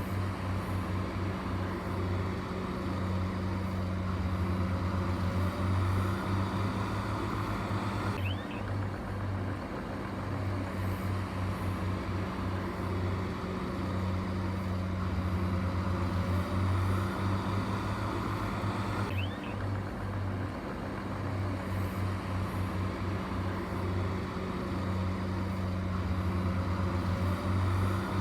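Heavy diesel machinery engine running steadily with a low drone. The sound changes abruptly about a third of the way in and again about two-thirds of the way in.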